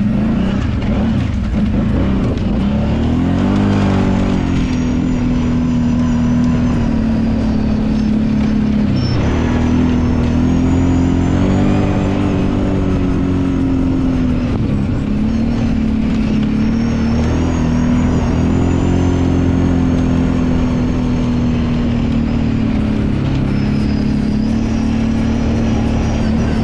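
Kawasaki Brute Force 750 ATV's V-twin engine running under load, its pitch rising and falling repeatedly as the throttle opens and closes.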